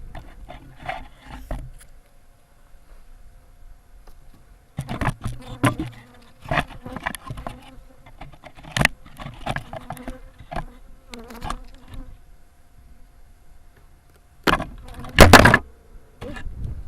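Honeybees buzzing around an opened hive in a steady hum, under a series of knocks and scrapes from the hive boxes and frames being worked, the loudest a sharp clatter about 15 seconds in.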